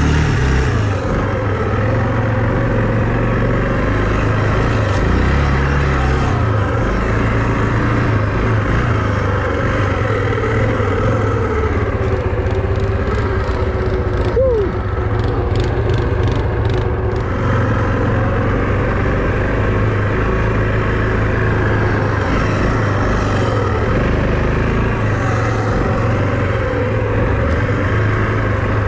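Vehicle engine running steadily while under way, holding an even speed with no revving up or down.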